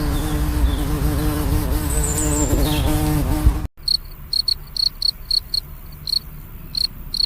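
A bee buzzing steadily in flight, its wing hum wavering slightly in pitch, cut off abruptly about halfway through. A cricket follows, chirping in short high-pitched chirps several times a second.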